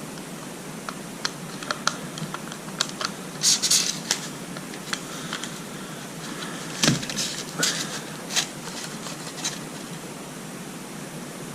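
Small metal distributor parts (contact-breaker points and condenser) being handled and fitted by hand: scattered light clicks, taps and short scrapes, with one louder knock about seven seconds in.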